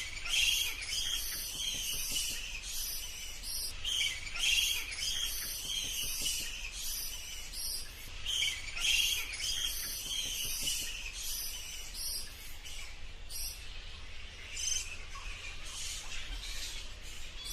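Bats squeaking: rapid, high-pitched chirps in quick clusters, repeating throughout over a faint low hum.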